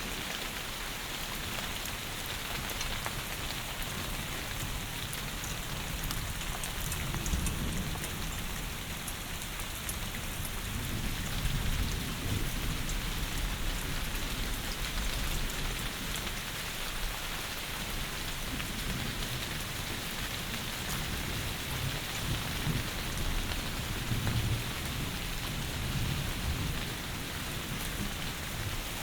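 Heavy rain falling in a steady hiss, with low rumbles of thunder swelling up a few times.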